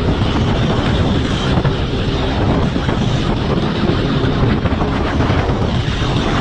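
Motorcycle running at speed, with heavy wind rush buffeting the microphone, loud and steady throughout.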